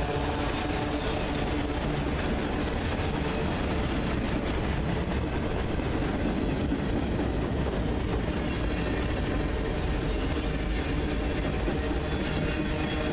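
Freight train passing on the Union Pacific line: a steady, unbroken rumble of cars and wheels on the rails, with a few held tones through it.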